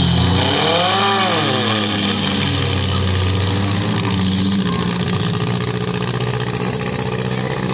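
Compact demolition-derby car engines running hard, one revving up and back down in the first second or so over a steady engine drone.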